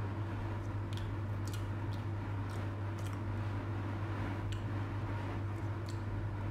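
Close-miked chewing of soft sponge cake, with a few faint wet mouth clicks and finger-sucking, over a steady low electrical hum that is the loudest sound.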